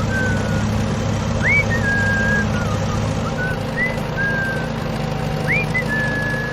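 A vehicle engine hums steadily throughout. Over it come about six short, high whistled notes: some sweep quickly upward, others hold a flat tone.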